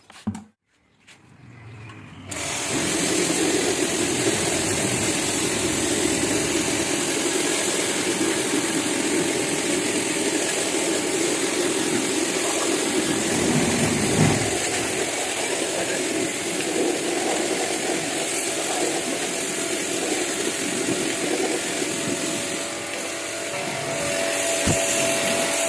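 Pressure washer running, its motor and water spray making a loud, steady hiss that starts about two seconds in.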